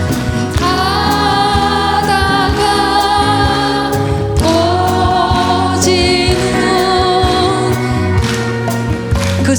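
Singing with musical accompaniment: long held sung notes with vibrato, changing to a new note about four seconds in.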